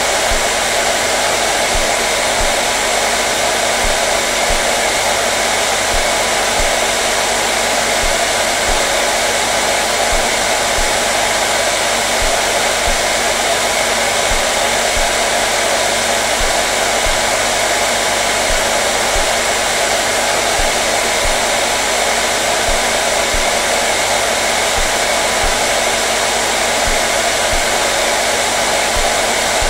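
Hair dryer running continuously at a steady setting: an even, unchanging whoosh of air with a motor hum underneath.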